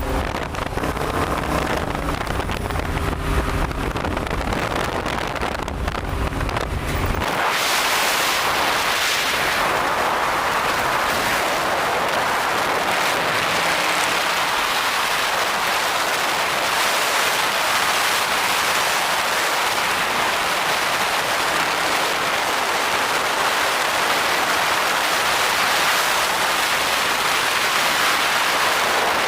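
Dodge Challenger's engine and new exhaust running with a low drone while driving on the road. About seven seconds in this gives way abruptly to a steady, loud rush of wind noise on the microphone.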